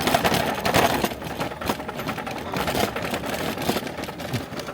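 Car engine running while driving, with a fast, even mechanical clatter.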